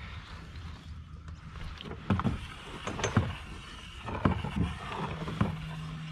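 Irregular knocks and bumps on a kayak, about half a dozen from about two seconds in, as fishing gear is handled aboard, over a steady low rumble.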